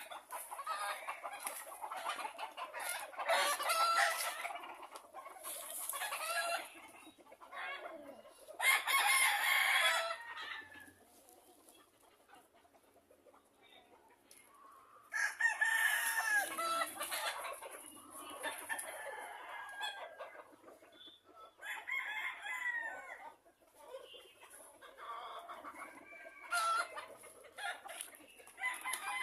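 Roosters crowing again and again, with clucking between the crows and a quiet stretch in the middle.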